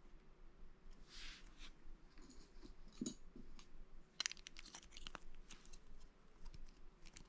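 Plastic Lego pieces being handled: a few soft rustles, then a quick run of sharp clicks and clatter as bricks are picked through and pressed together about four seconds in.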